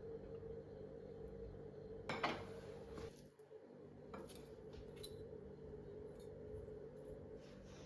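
Kitchen utensils and dishes being handled: one louder clatter about two seconds in, then scattered light clicks and taps, over a steady low hum.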